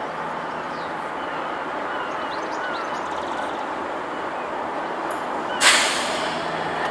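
Approaching freight train: a steady rushing rumble, with a sudden loud burst of hiss about five and a half seconds in.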